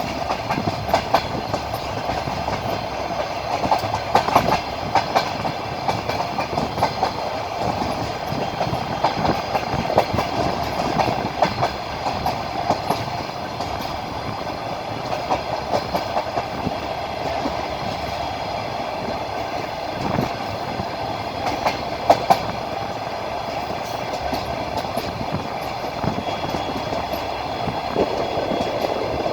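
Passenger train car running along the track: a steady rumble with the wheels clacking over rail joints, and now and then a sharper click standing out.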